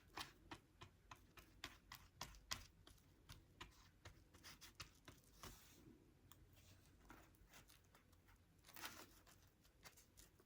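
Faint, irregular small clicks and taps of craft pieces being handled and placed on a model plate.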